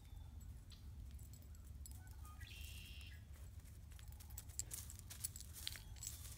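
Faint footsteps and movement crunching over hard-frozen, frosty ground, as scattered short clicks that grow busier in the second half, over a low rumble on the microphone. A short high call sounds about two and a half seconds in.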